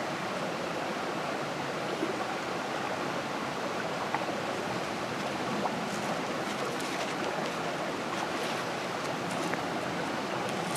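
Steady rain falling, an even hiss with a few light scattered drop ticks.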